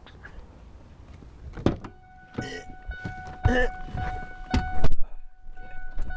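A person climbing into a pickup's cab: knocks and a heavy thump, with a couple of short grunts. A steady electronic tone sounds throughout, breaking off briefly near the end before it comes back.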